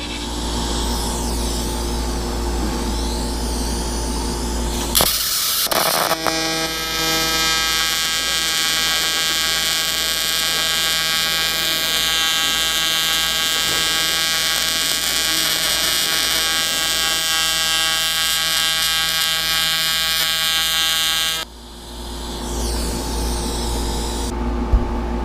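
AC TIG arc of an AHP AlphaTIG 200X welder buzzing steadily as it welds an aluminium motorcycle engine case, at about 113 amps with the AC frequency around 170 Hz. The arc starts with a short crackle about five seconds in and cuts off suddenly near the end. A steady low hum lies underneath.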